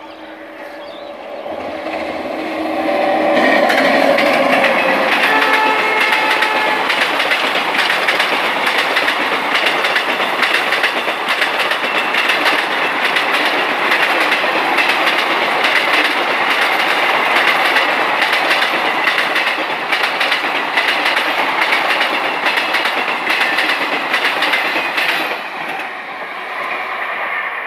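An electric locomotive's horn sounds as the express train approaches. The passenger coaches then rush past at speed for about twenty seconds, wheels clattering over the rail joints, and the noise eases off near the end as the train draws away.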